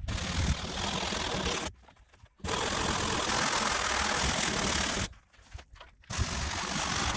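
A motor-driven tool running in three stretches of a few seconds each, stopping briefly between them: a steady hiss over a low rumble, starting and stopping abruptly.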